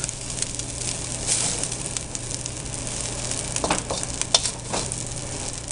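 Rice sizzling as it stir-fries in a hot wok, with a wooden spatula scraping and knocking through it. A few sharper scrapes come a little past halfway.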